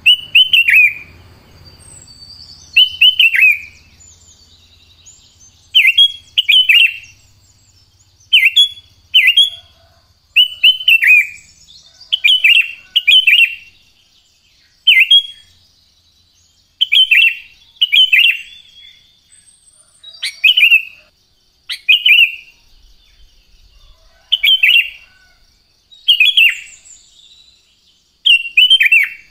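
Sooty-headed bulbul singing: short, loud, downward-sliding whistled phrases repeated every one to three seconds, often two in quick succession. A faint steady high tone runs behind them.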